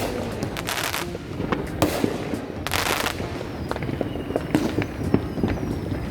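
Fireworks going off: a run of sharp pops and bangs, with several short hissing, crackling bursts and a faint falling whistle in the second half.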